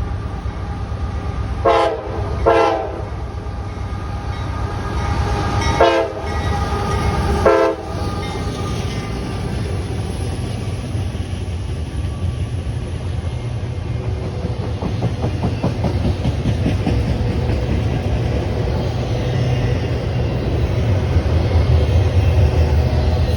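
A diesel locomotive sounding its horn in four short blasts, two pairs a few seconds apart, as a train passes. The rumble of the train runs underneath and grows louder later on, with wheels clicking over rail joints.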